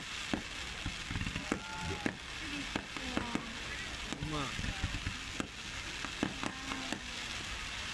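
Fireworks going off: a steady crackling hiss, broken by many sharp pops and cracks throughout.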